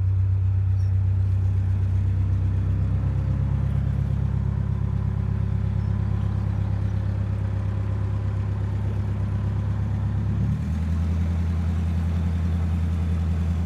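Narrowboat engine running steadily at low revs with a deep, even hum. Its note changes abruptly about ten and a half seconds in, as the throttle is adjusted.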